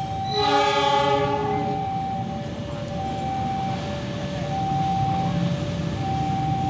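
A train horn sounds once, a chord of several tones held for about a second and a half just after the start, over the rumble of a passing train. Behind it a level-crossing warning alarm keeps alternating between a higher and a lower tone.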